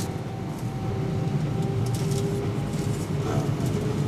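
Cabin noise of an Airbus A319 airliner: a steady low engine rumble with two steady hum tones and a few faint clicks, growing slightly louder about a second in.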